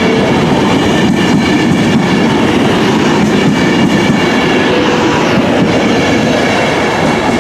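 A train running close by on the line: a loud, steady rumble of wheels on the track, with a faint whine running through it.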